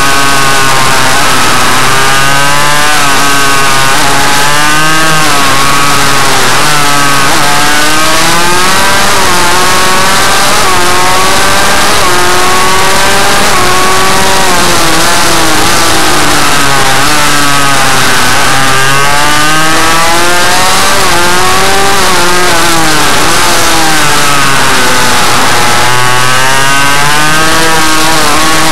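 Suzuki RM85's 85 cc two-stroke single-cylinder engine running hard on a minimotard, its pitch climbing and dropping again every couple of seconds as the throttle is opened and closed.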